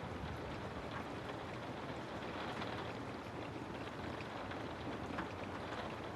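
Steady rainfall: an even hiss with faint scattered drop ticks.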